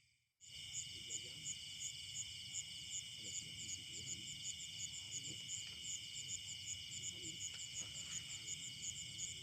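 Insect chorus of crickets: a steady shrill with a pulsing chirp about three times a second, cutting in abruptly about half a second in.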